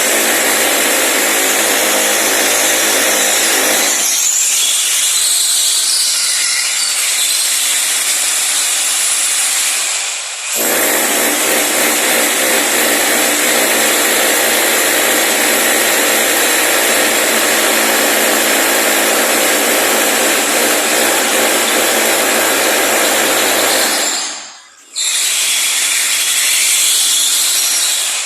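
Electric power tool running in long steady runs, stopping briefly about ten seconds in and again near the end.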